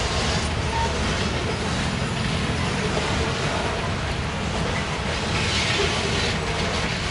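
Covered hopper cars of a freight grain train rolling past, giving a steady noise of steel wheels on the rails.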